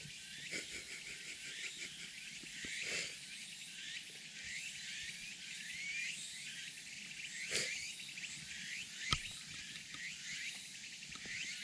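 A steady chorus of chirping insects. A few sharp crackles or pops from the small wood campfire come through it, the loudest about nine seconds in.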